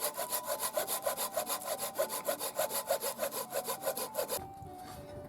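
Hand saw cutting through wood in rapid, even back-and-forth strokes, stopping about four seconds in.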